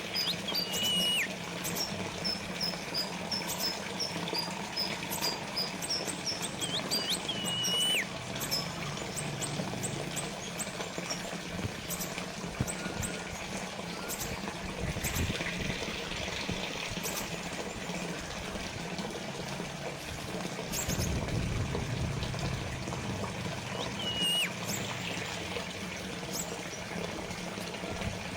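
Small fountain water trickling and splashing steadily. A small bird calls over it: a quick series of high chirps for the first several seconds, and a few short whistled notes that drop in pitch, about a second in, near eight seconds and again near twenty-four seconds.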